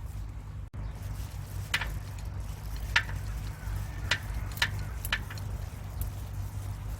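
Half a dozen sharp, irregularly spaced knocks over a steady low hum.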